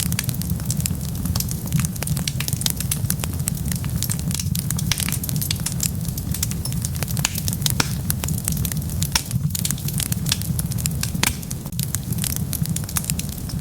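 Wood fire burning, with a steady low rumble and many sharp crackles and pops, several a second.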